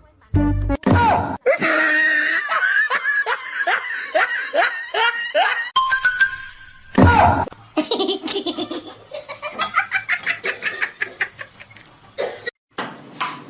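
Laughter in runs of quick, repeated bursts, with music underneath.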